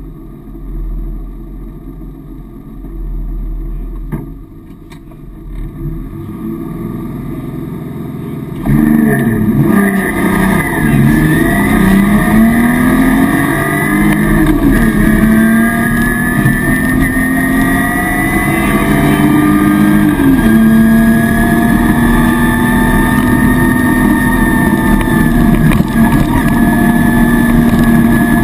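Rally car engine heard from inside the cabin: running low at the stage start, then launching hard about nine seconds in, its pitch climbing and dropping through quick gear changes, before holding a loud, steady high-revving note at speed with another shift about twenty seconds in.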